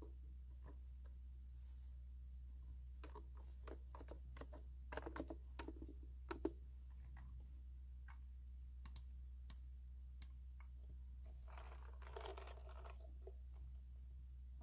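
Soft, irregular clicks of computer keyboard keys being pressed for ASMR, loudest in a run of clicks about five to six seconds in, over a steady low hum.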